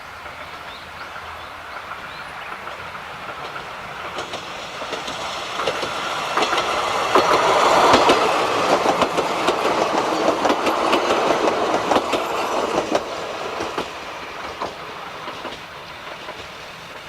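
A diesel train on the Tsukuba Line passing close by, its wheels clicking over the rail joints. It grows louder over the first few seconds, is loudest about halfway through, then fades away.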